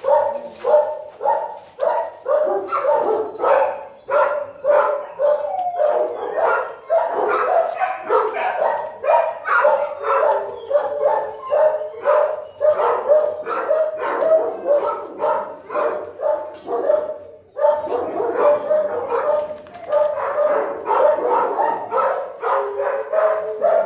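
Several big dogs in shelter kennels barking over one another, loud and almost without pause, with a brief lull about 17 seconds in.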